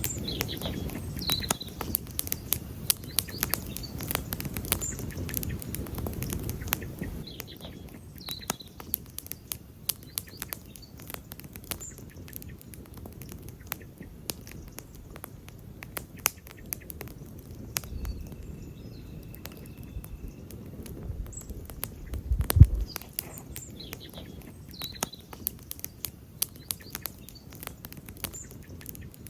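Wood campfire crackling, with many sharp irregular pops and snaps over a low rumble that is strongest in the first few seconds and swells briefly about 22 seconds in. Faint bird chirps sound a few times in the background.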